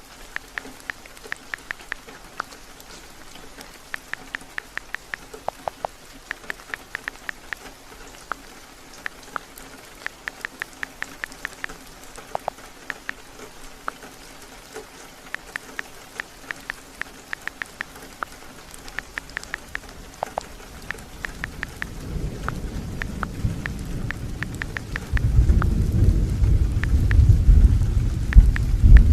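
Steady heavy rain with runs of light, quick clicking taps over it. In the last few seconds a low thunder rumble builds and grows loud.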